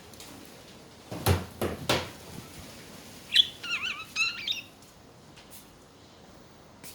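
Budgerigar giving a short warbling chirp, its pitch wavering quickly, about halfway through. A little before it come three sharp knocks in quick succession.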